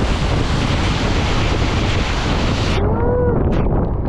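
Loud, steady rushing noise of a heavy tropical downpour and flood water, with wind buffeting the microphone. It cuts off sharply near the end, followed by a brief pitched sound that bends up and then down.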